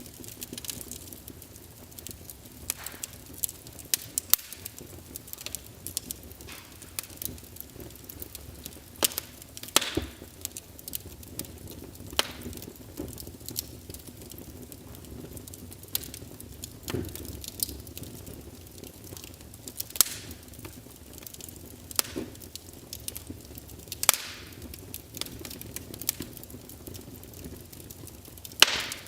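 Logs burning in a fireplace, crackling with irregular sharp pops over a soft steady hiss. A few louder pops stand out, near the middle and again near the end.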